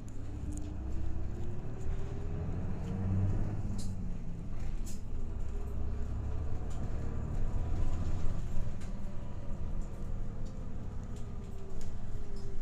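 Inside a route bus while it is driving: a steady low engine and road rumble. A fainter whine rises and falls in pitch as the bus gathers and sheds speed. Now and then small clicks and rattles sound from the cabin.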